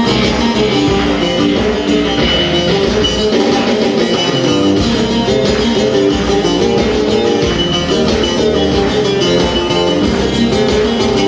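Live Turkish folk music, instrumental passage: a plucked bağlama (saz) carries the melody over a steady beat.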